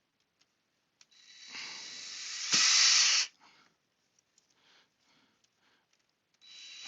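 Power drill driving a screw into the fuel pump's rubber mount: one run of about two seconds that speeds up and is loudest just before it stops, then a second run starting near the end.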